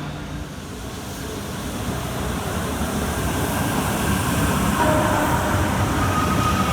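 A train moving at the station, its rumble growing steadily louder as it approaches, with a high whine of several tones joining about two-thirds of the way in.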